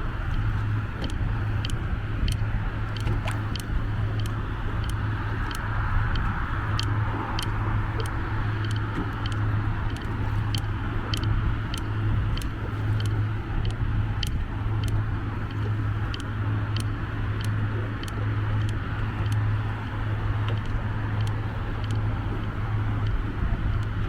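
Steady low engine hum with a scattering of sharp ticks over it, about two a second.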